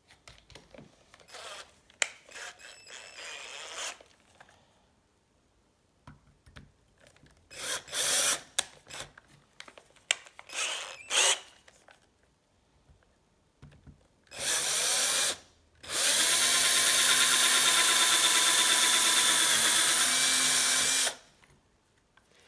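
Small electric drill boring a 2.5 mm hole in a bicycle quick-release skewer. It runs briefly once, then steadily for about five seconds near the end. Before that come scattered clicks and short rattling bursts of handling at the chuck and workpiece.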